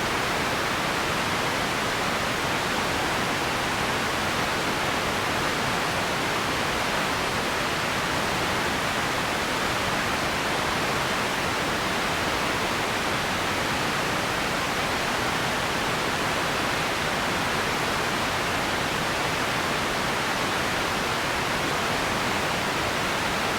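Steady, unchanging hiss of noise, even in level throughout, strongest in the middle and upper pitches, with no separate events in it.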